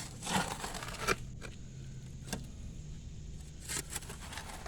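Shovel scraping into clay and rocky soil, one long scrape in the first second, then a few sharp clinks as the blade hits stones.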